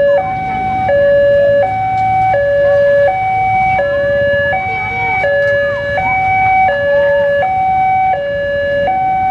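Railway level-crossing warning alarm sounding its electronic two-tone signal, a low and a high tone alternating about every three-quarters of a second. A low rumble lies under it for the first few seconds.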